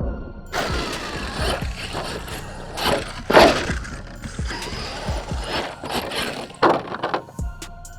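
Axial SMT10 electric RC monster truck running on dirt, its motor and geared drivetrain whirring in repeated surges with the tyres churning, loudest about three seconds in and again near the end. Music with a steady beat plays under it.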